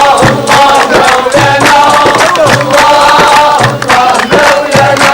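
A group of voices singing a chant together over a steady percussive beat.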